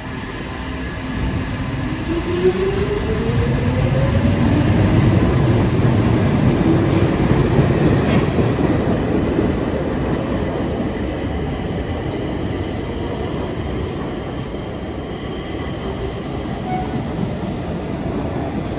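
Stockholm Metro train accelerating: a whine rises in pitch over the first few seconds over growing rail rumble, then the train runs on with steady wheel-and-rail noise.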